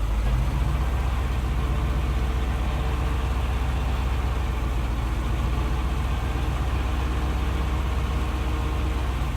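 Heavy truck engine running steadily with a deep, even low hum.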